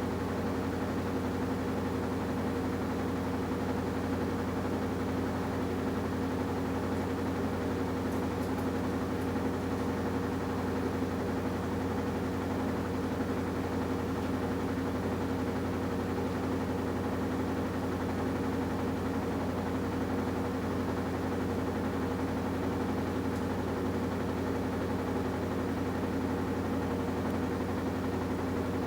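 AQUA washing machine with a DDM inverter direct-drive motor running at a constant speed, giving a steady, unchanging hum with a low drone and higher tones above it.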